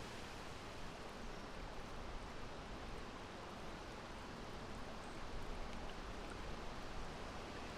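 Steady wind: an even, rushing hiss that swells a little about five seconds in.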